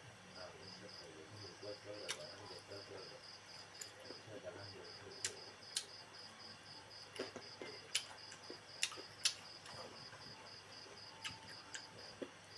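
A cricket chirping steadily in a high, even pulse, about three to four chirps a second, with scattered sharp clicks throughout, the loudest about eight to nine seconds in.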